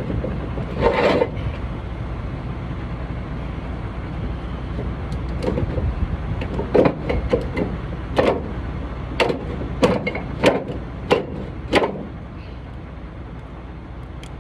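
Metal ratchet-strap hardware clicking and knocking as the straps are handled, with one clunk about a second in and then a run of about nine sharp clicks, roughly one every half second to second, over a steady low rumble.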